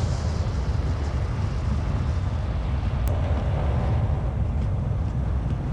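An SUV driving, with a steady rumble of road and wind noise and heavy low buffeting.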